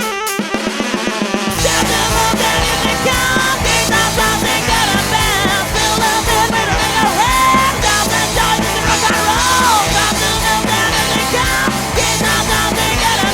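Rock song: a sparse guitar line, then about a second and a half in the full band comes in with drums and bass, with a singer's voice over it.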